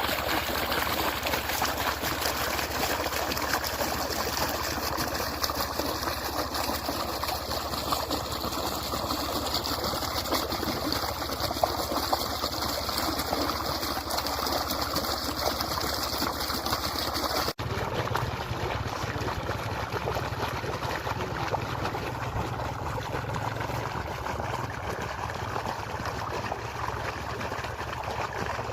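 Steady rushing of river water. About two-thirds of the way through the sound changes abruptly, losing its hiss and gaining a deeper rumble.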